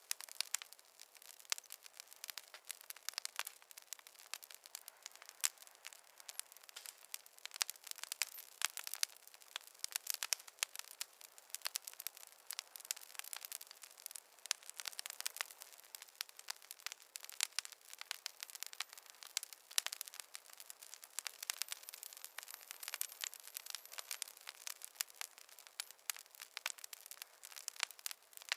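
Wood fire crackling: a dense, irregular run of small sharp pops and snaps over a faint hiss.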